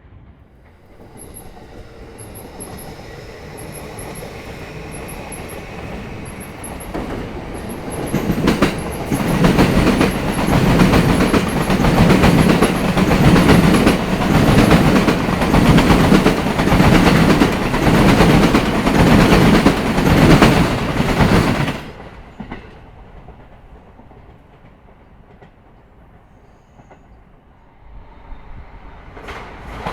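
A Sobu Line electric train approaches and then runs past close by, its wheels clattering loudly and rhythmically over the rail joints. The clatter stops suddenly about two-thirds of the way through. Near the end another train begins to approach.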